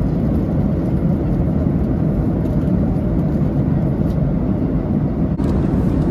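Steady rumble of a Boeing 737-800's twin turbofans and airflow, heard inside the cabin, with a brief click about five seconds in.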